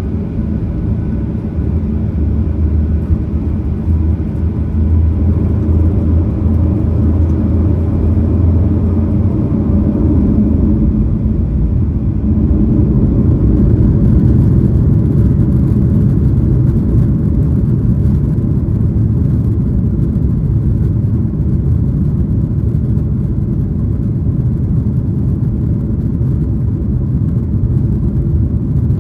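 Boeing 737-900ER cabin noise from inside the cabin: the CFM56-7B jet engines run steadily under a constant low rumble. About twelve seconds in the rumble broadens and grows a little louder.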